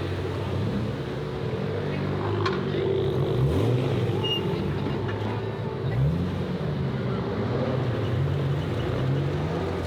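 A car engine running at idle, revved briefly about three and a half seconds in and again about six seconds in, its pitch rising and settling back.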